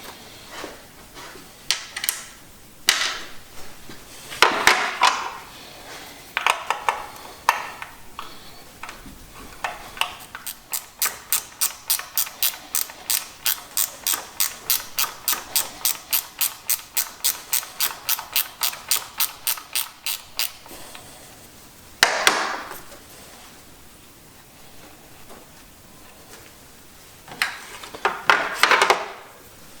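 Hand ratchet wrench clicking in an even run of about three to four clicks a second, starting about ten seconds in and stopping about ten seconds later, as it backs off the nuts that hold the ignition control module. Before and after, sharp clinks and rattles of tools and metal parts being handled.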